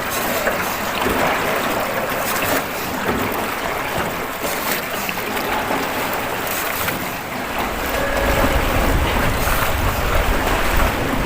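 Steady rushing of water and open-air noise around a small river boat. From about seven and a half seconds in, a low rumble of wind buffeting the microphone joins it.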